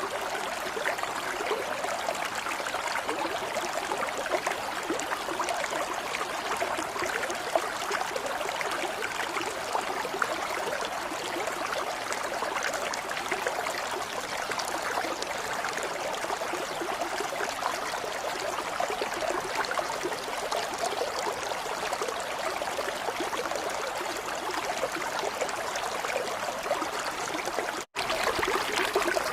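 Steady running water with a fine, continuous flicker. It drops out for a split second near the end, as at a loop splice.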